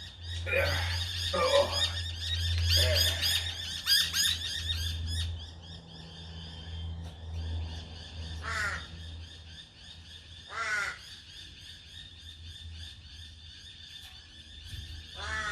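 Birds giving harsh, barking calls: a dense flurry of overlapping calls for the first five seconds, then three single calls a few seconds apart. A low steady hum runs beneath the first half.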